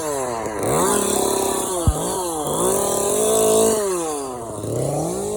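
Chainsaw engine revved up and let back down about three times, its pitch climbing, holding, then falling away each time.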